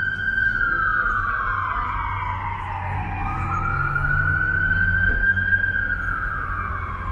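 Emergency vehicle siren in a slow wail. The pitch holds high, sweeps down about three seconds in, climbs back up and holds, then falls again near the end. Underneath is a low steady rumble.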